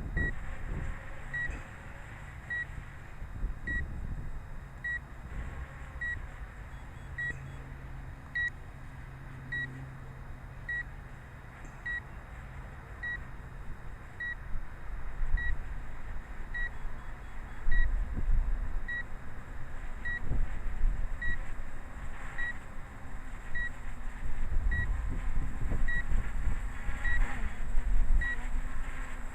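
Drone remote controller beeping steadily, one short high beep about every second and a bit, the alert that sounds while the drone flies its return-to-home. Wind buffets the microphone underneath, gustier in the second half.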